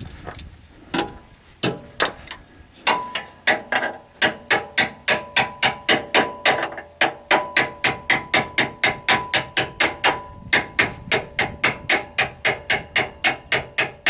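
Hand ratchet wrench clicking in steady short strokes, about four to five sharp metallic clicks a second, as a transmission bolt is run in. The clicks come irregularly for the first few seconds, then settle into an even rhythm with a faint ringing behind them.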